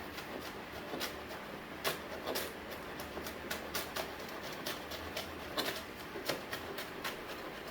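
Kitchen knife chopping scallion and other seasonings on a cutting board: short, irregular taps of the blade striking the board, about one or two a second.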